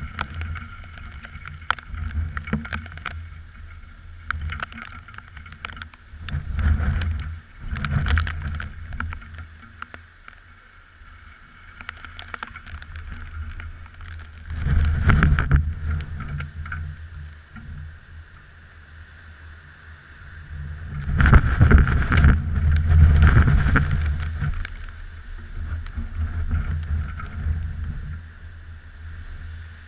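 Typhoon wind gusting against a GoPro, buffeting its microphone in uneven low rumbling surges; the strongest gust comes about two-thirds of the way through.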